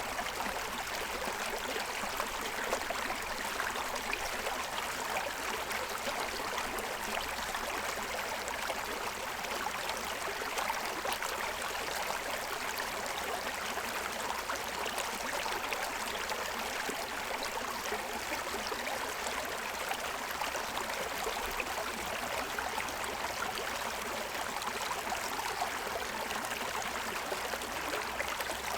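Shallow stream running steadily over the stones of its bed, an even rushing and splashing with no pauses.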